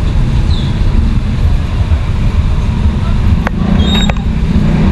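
Road traffic: a steady, loud low engine rumble from passing motor vehicles, with a few brief high squeaks and clicks about three and a half to four seconds in.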